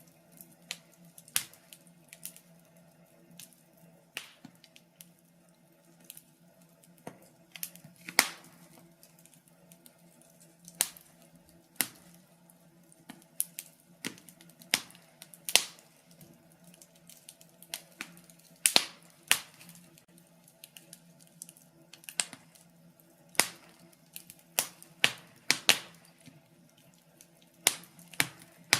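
Wood fire crackling in a fireplace: irregular sharp pops and snaps, a few of them loud, scattered over a faint steady low hum.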